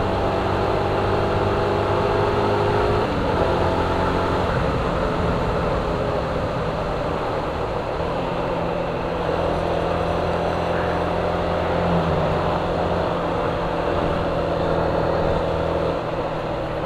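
Suzuki Gixxer 150's single-cylinder engine running steadily while the motorcycle cruises at about 60–70 km/h, over a rush of wind and road noise. The engine note shifts about three seconds in and again near the end as the bike slows slightly.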